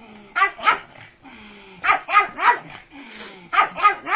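Pug barking in quick bursts of two or three sharp barks, the bursts about a second and a half apart.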